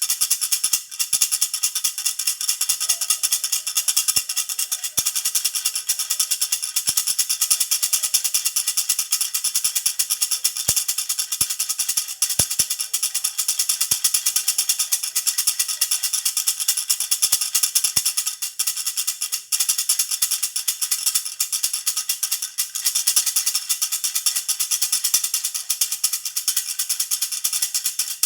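Baby rattle (jhunjhuna) shaken continuously in a fast, steady, high-pitched jingle, without a break.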